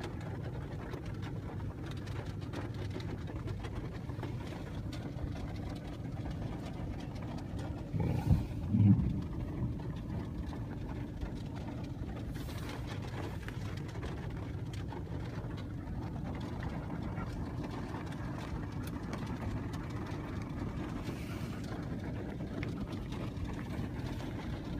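Steady engine and road hum heard from inside a moving car's cabin, with a brief louder low sound about eight seconds in.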